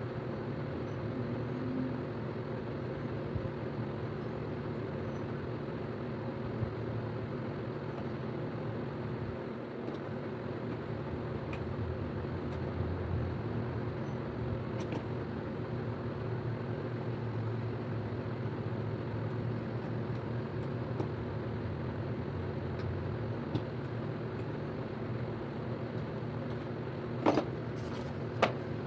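A steady mechanical hum with several fixed low tones over a constant hiss, as from a motor running; a few sharp clicks near the end.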